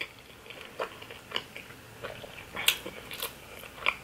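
Person chewing a mouthful of cheesy lasagna close to the microphone, with a few short, irregular clicks.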